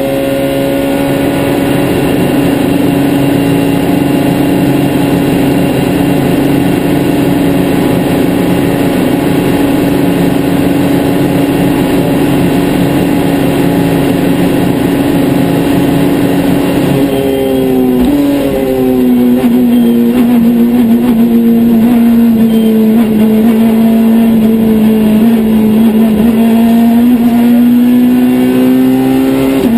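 Citroën C2 R2 Max rally car's four-cylinder engine heard from inside the cabin, running hard at a steady high pitch. About seventeen seconds in the pitch drops with an upshift, then the engine pulls on a little louder and slowly climbs again near the end.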